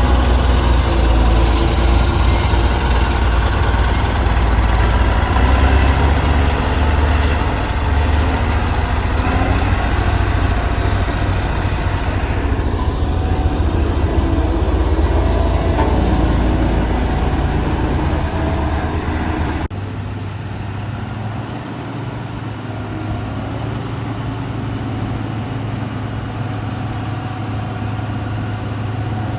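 Heavy diesel engine of a motor grader working soil, running loud and steady with a deep rumble. About two-thirds of the way through the sound switches abruptly to a quieter, even engine hum.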